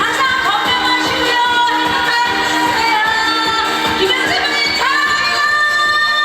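Trot song sung live by a woman over a backing track with a steady beat. She holds a long note from about two-thirds of the way through.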